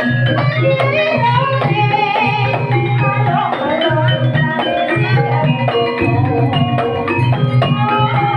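Banyumasan gamelan music for ebeg: hand drums played in a steady rhythm under many short, struck, pitched notes.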